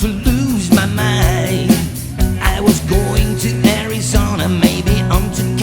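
A live band playing an upbeat rock-and-roll song with a steady beat.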